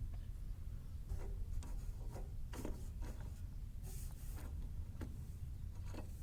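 Light scattered clicks and scrapes of small hard objects being handled, about eight in all with a brief hissy scrape near the middle, over a steady low hum.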